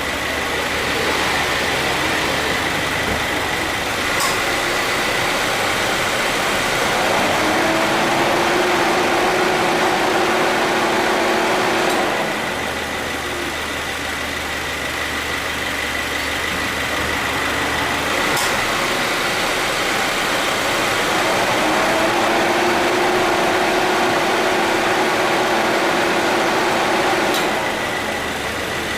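2014 Subaru Forester engine idling with the air conditioning running. The A/C compressor clutch clicks in about four seconds in, runs for about eight seconds with a steady hum added, and clicks out. It cycles again the same way from about eighteen seconds in. The compressor engages cleanly, without the start-up noise of light wear.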